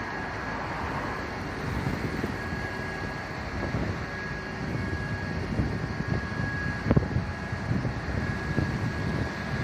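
Low rumble of an engine running, with wind on the microphone and a thin steady high tone through it; a single knock about seven seconds in.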